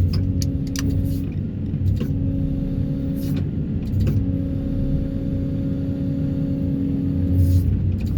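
Excavator engine at full throttle driving a Daedong DTD350T hydraulic vibro hammer while it extracts a steel sheet pile: a steady low rumble with a humming tone that cuts out briefly a few times, and a few sharp knocks.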